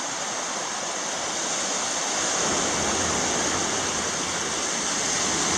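Steady hiss of surf washing up on a sandy beach in a slightly rough sea, swelling a little toward the end.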